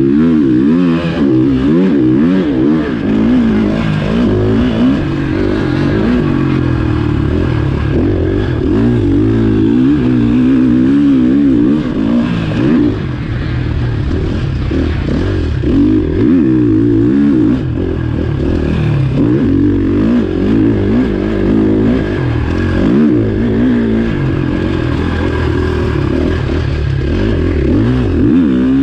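Motocross bike engine being ridden hard, its pitch rising and falling over and over as the throttle opens and closes and the gears change.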